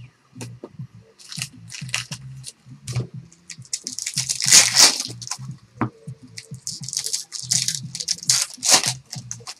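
Trading card packs being torn open and handled, foil wrappers crinkling in irregular bursts, loudest about halfway through and again near the end.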